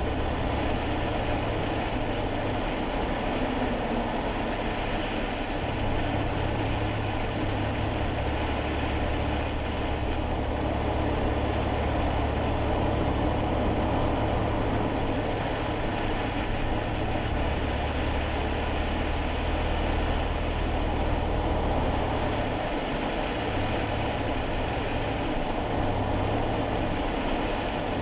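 Cabin noise inside a moving kei car: a steady low engine drone whose note shifts a few times, under a constant hiss of tyre and road noise on a wet road.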